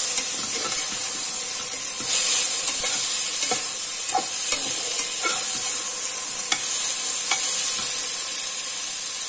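Chopped vegetables and green peas frying in ghee in an aluminium pressure cooker, sizzling steadily, while a spoon stirs them with short scrapes and taps against the pot every second or so.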